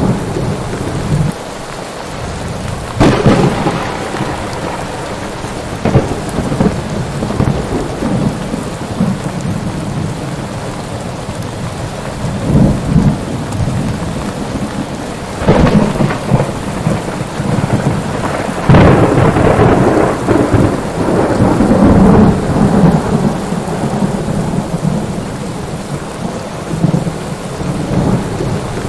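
Thunderstorm: steady heavy rain with thunder. Sharp cracks come at about 3, 6 and 15.5 seconds in, and a long rolling rumble runs from about 19 to 23 seconds in.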